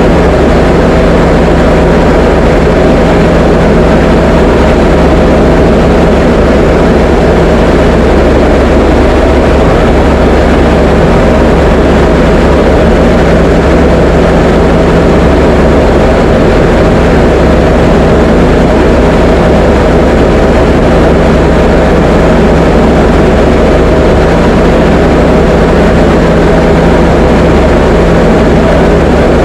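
Diamond DA20 light aircraft's piston engine and propeller droning steadily in flight at a constant, unchanging pitch.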